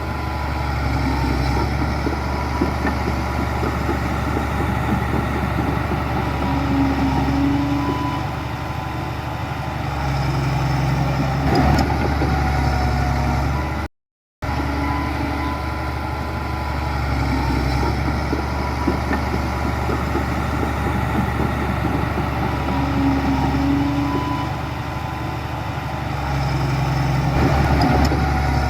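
Heavy diesel engine of earthmoving machinery running steadily, swelling under load about ten seconds in and again near the end. The sound drops out completely for about half a second midway.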